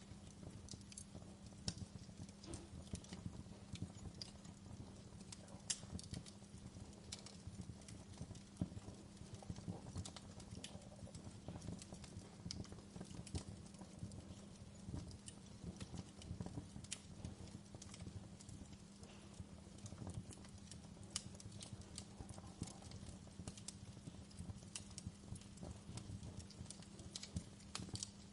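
Wood fire crackling in a fireplace: irregular sharp pops and snaps over a faint steady low rumble.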